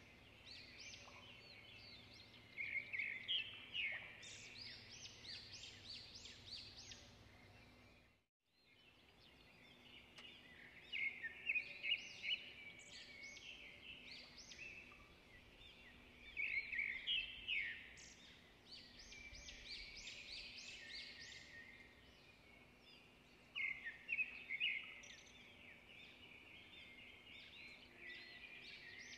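Birds chirping and singing: a steady stream of quick, high chirps and trills, cutting out briefly about eight seconds in.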